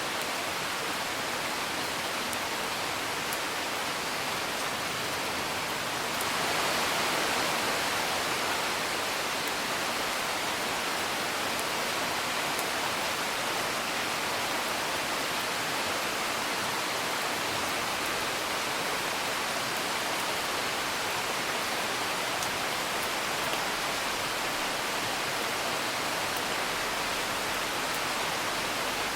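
Steady rain falling, growing a little heavier about six seconds in, with a few faint crackles from a wood fire.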